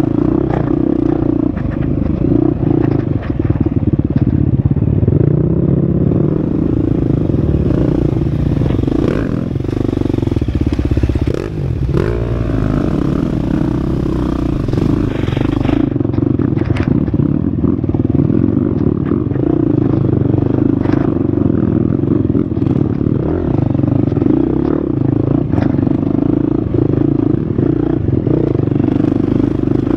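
Husqvarna FX 350 dirt bike's single-cylinder four-stroke engine running hard on a trail, its pitch rising and falling as the throttle is worked, with a brief dip about twelve seconds in. Scattered knocks and clatter from the bike over rough ground run through it.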